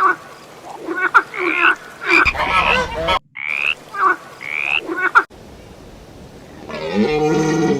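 Animal calls: a string of short calls that rise in pitch, broken by abrupt cuts, then a longer, deeper call starting near the end.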